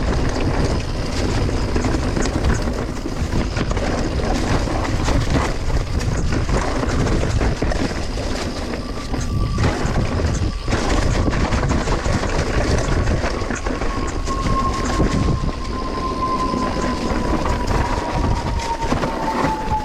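Mountain bike rolling fast down a dirt trail: tyres running over the ground, the bike and gear rattling, and a few sharp knocks from bumps. About halfway through, a whining tone comes in and slowly falls in pitch.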